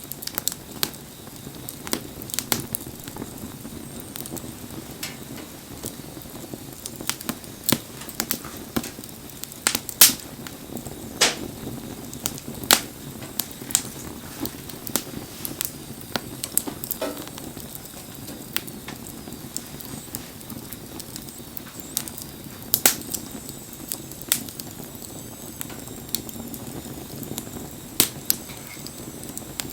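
Wood fire burning, crackling with sharp pops at irregular intervals over a steady low hiss.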